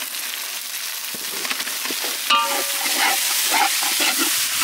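Oil sizzling in a large metal pot as freshly added tomatoes, coriander and mint are stirred into frying onions with a long metal ladle, which scrapes the pot and gives one ringing clink about two seconds in.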